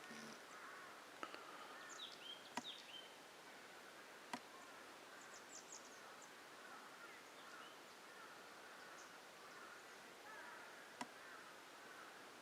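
Faint forest ambience of small birds chirping and twittering, with a few high chirps and warbling phrases scattered through, and four short sharp clicks.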